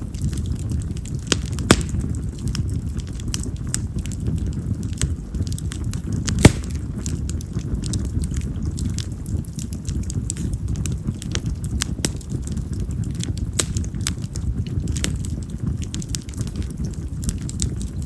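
Wood fire of split yamazakura (wild mountain cherry) logs crackling over a steady low rumble. Frequent small snaps are broken by two sharp, loud pops, one about two seconds in and one about six seconds in. This firewood is known for loud popping, like firecrackers.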